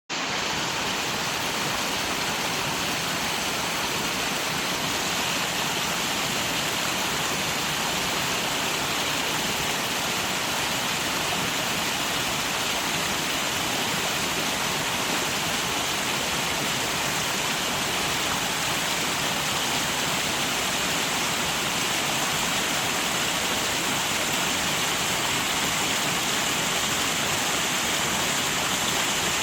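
Steady rushing of flowing water, an even hiss without breaks or changes.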